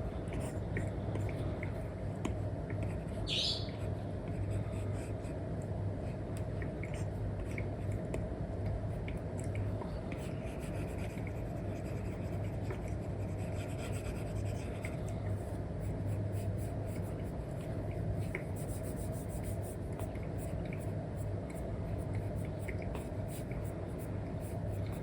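Apple Pencil nib with an Elecom tip scratching and tapping on an iPad screen covered with paper-like film, in many small strokes over a steady low hum. One short rising squeak comes about three and a half seconds in.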